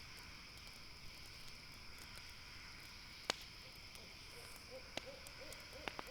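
Campfire crackling with a few sharp pops over a steady high chirring of night insects. In the second half an owl calls with a faint, wavering trill.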